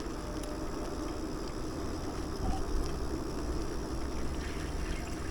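Steady low rumble and hiss of a bicycle ride: wind and road noise on the rider's microphone as the bike rolls along.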